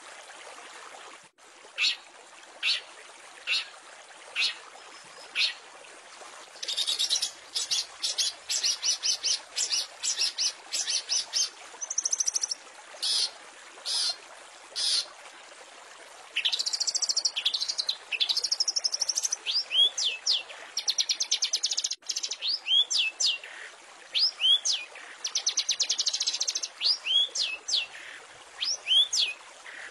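Long-tailed shrike (cendet) calling: sharp single high notes at first, then from about seven seconds in fast rattling chatter and repeated downward-sweeping whistles, over a faint steady hiss.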